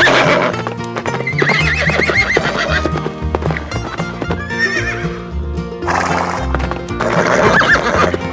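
Horse whinnying three times, the first a long trilling neigh and the others short, over background music with a steady bass line.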